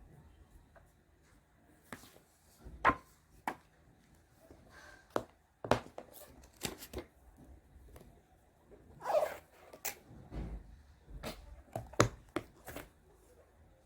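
Kitchen work sounds: a series of irregular knocks and taps of utensils and containers. The loudest come about three seconds in and near the end, with a brief scrape in the middle.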